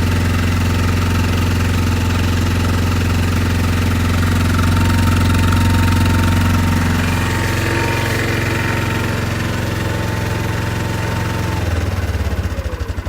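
Yamaha Kodiak 450's single-cylinder four-stroke engine idling steadily after a cold start. Near the end the idle slows and drops, and the separate firing pulses can be heard.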